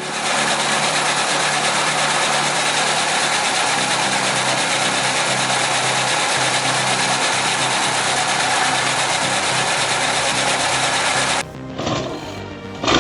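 Engine and hydraulic pump of a vertical log splitter running steadily. The sound drops and changes about eleven seconds in.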